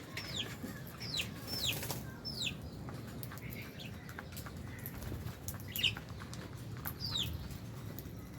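Lovebirds chirping in an aviary: about six short, sharp calls, each sliding quickly down in pitch, scattered irregularly, with light clicks and rustling from the flock between them.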